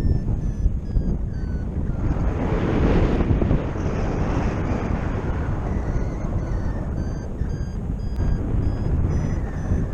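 Wind rushing over the microphone in flight, with a paragliding variometer giving short repeated beeps, about two a second, that shift in pitch. The wind swells loudest a few seconds in.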